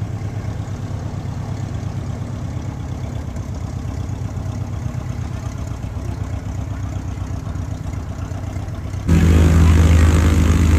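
Light aircraft's piston engine running steadily, then jumping abruptly louder about nine seconds in.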